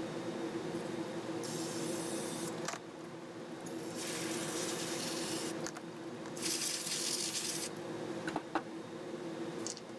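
A spray cleaner sprayed onto a graphics-card fan in three bursts of about a second each, with a few light clicks of handling near the end.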